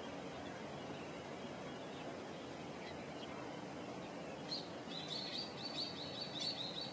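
Steady outdoor background noise; about four and a half seconds in, a bird starts calling, a quick run of short high chirps, about four or five a second, to the end.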